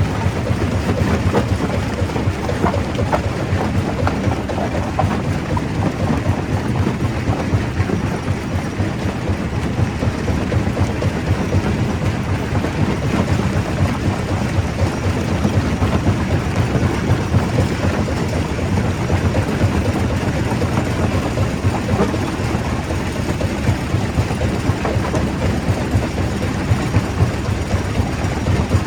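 Stone crusher breaking rock: a steady heavy rumble with a dense, continuous clatter of stone cracking and knocking.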